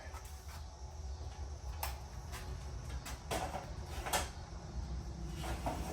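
Scattered clicks and knocks of objects being picked up and set down, about half a dozen, over a steady low hum.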